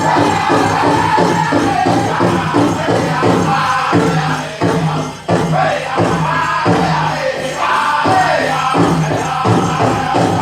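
Powwow drum group singing a chicken dance song: several voices in high, wavering chorus over a fast, steady beat struck on a large shared powwow drum, with a brief drop in the middle.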